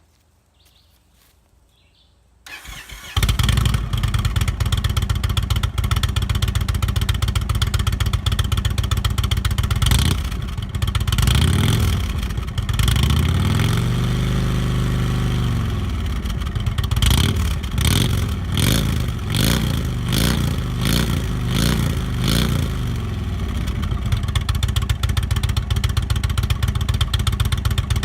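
Indian Thunder Stroke 111 V-twin motorcycle engine breathing through Thunder Works slash-cut slip-on mufflers, started about two and a half seconds in and idling. Midway it is revved once in a long rise and fall, then given a string of quick throttle blips before settling back to idle.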